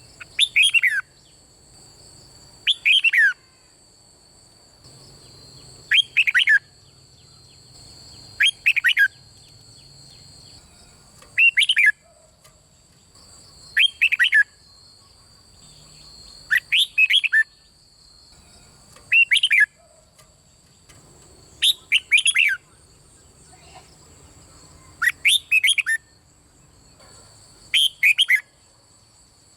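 Red-whiskered bulbul singing: short song phrases repeated about every two to three seconds, several of them doubled.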